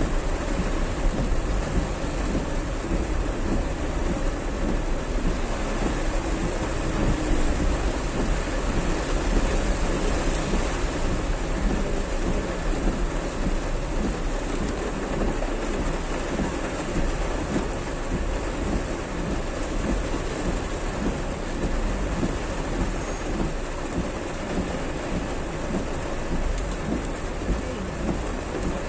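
Heavy rain pouring steadily: a dense, even hiss with a steady low rumble underneath.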